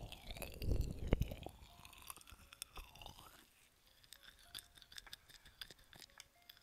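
Close-miked ASMR scratching and rustling from a feather ear-cleaning rod worked against the microphone. It is dense and rumbly for about the first second and a half, then thins to scattered light ticks and taps.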